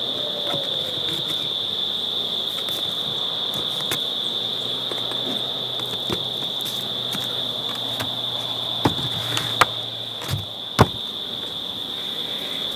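Steady, high-pitched insect chirring, like crickets, with a few sharp knocks about three-quarters of the way through.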